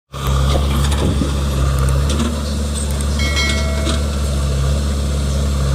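Heavy diesel engine running steadily, with scattered clicks and a brief high-pitched tone about three seconds in.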